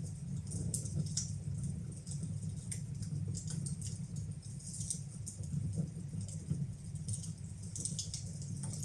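Wood fire burning in a fireplace: a steady low rumble with irregular small crackles and pops.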